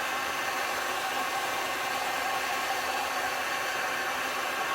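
Heat gun blowing steadily on its highest fan setting: an even rush of air with a faint motor hum.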